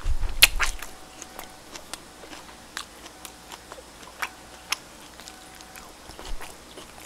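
A person chewing food close to the microphone, with scattered wet mouth clicks and smacks, busiest in the first second and then sparse.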